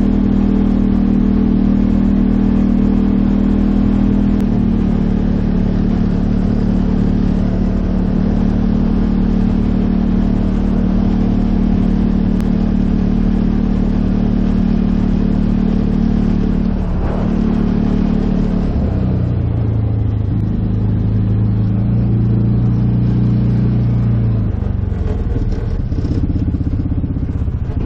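2015 Polaris Ranger 570 UTV's single-cylinder engine running while driving, holding a steady speed for most of the time. Its pitch drops about two-thirds of the way through as it slows, then rises again near the end.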